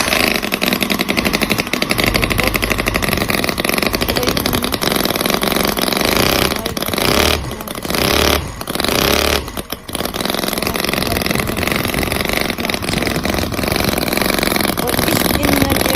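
Miniature V-twin gasoline model engine running fast, with a rapid, rattling stream of firing pulses. In the middle it dips and picks up again a few times, as if revved.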